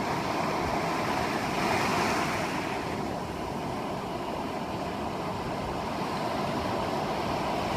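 Ocean surf washing onto a beach, one wave breaking and swelling about two seconds in, with some wind on the phone's microphone.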